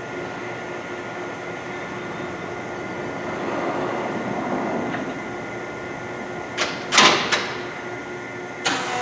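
LeBlond Regal engine lathe running in its 49 rpm spindle speed: a steady gear hum with a few high whining tones. About seven seconds in come several loud metallic clunks, and another just before the end, as the headstock is shifted to the next speed.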